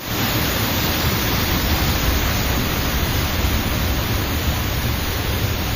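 Loud, steady rush of fast-flowing water from rain-swollen waterfalls, with a deep rumble underneath.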